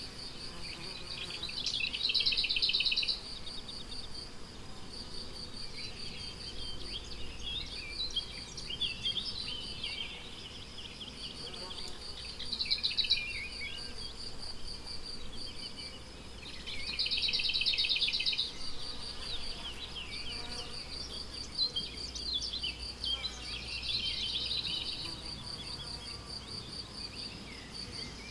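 Crickets chirping in a steady, fast pulsing high trill, with songbirds singing short bursts over it about every four to five seconds.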